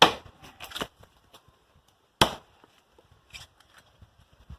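Firewood being chopped by hand: a sharp blow into a tree branch at the start and another about two seconds later, with lighter knocks between and after.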